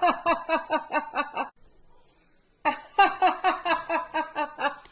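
A woman laughing on purpose in two bouts of quick "ha-ha-ha" pulses, about six a second and each falling in pitch. The second bout comes after a pause of about a second.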